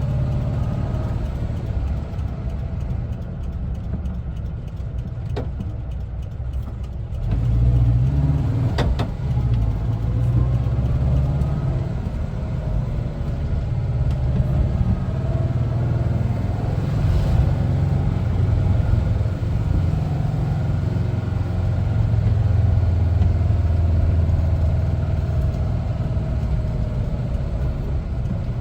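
1974 Volkswagen Westfalia camper's air-cooled Type 4 flat-four engine running as the van drives. The engine eases off for a few seconds, then pulls harder again about a quarter of the way in, its note rising and falling through the rest, with two sharp clicks around that change.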